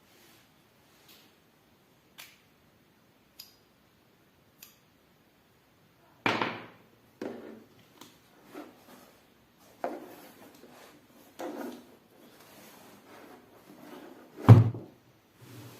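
Hands handling packaging: a few faint clicks, then from about six seconds in a run of knocks and rustles, with one sharp, heavier thump near the end.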